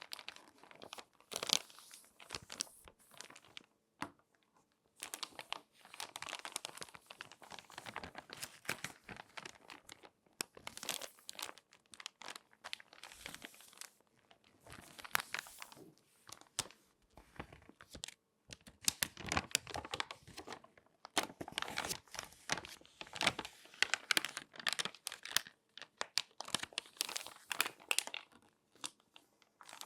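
Crinkly glossy magazine pages being folded and handled by hand, crackling and rustling in bouts with short pauses between them.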